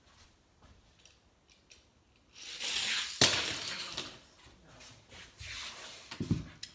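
Die-cast Matchbox toy car running down a toy racing track: a rushing rattle of small wheels starts about two and a half seconds in, with one sharp clack near the middle, then a few dull knocks near the end as the car fails to make the jump.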